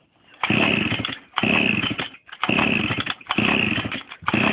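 Mini moto's small two-stroke engine, run without its exhaust, firing in five short loud bursts with brief gaps between, then cutting out near the end. It won't keep running, short of petrol.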